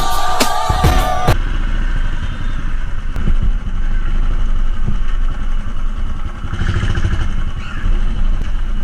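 Royal Enfield Bullet's single-cylinder engine running through its exhaust with a steady, loud thump. A short stretch of music plays over it for about the first second.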